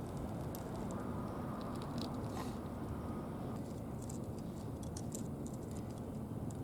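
Brick-laying sounds: a few faint, short scrapes and light taps as bricks and cement mortar are handled and set, over a steady low background noise.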